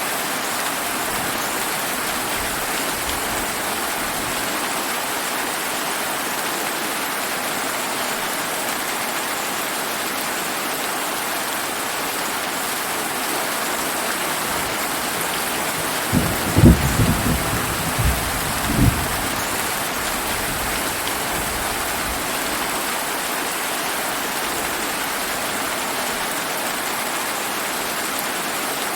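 Steady heavy rain hissing on surfaces. About sixteen seconds in, a short roll of thunder rumbles low in several swells for about three seconds.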